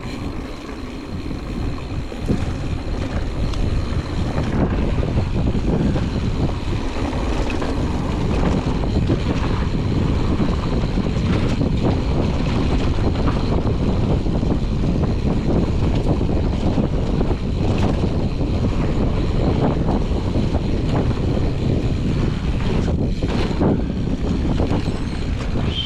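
Wind rushing over the GoPro's microphone, mixed with mountain bike tyres rumbling on a dirt trail and the bike rattling and knocking over bumps. It grows louder a few seconds in and then holds steady.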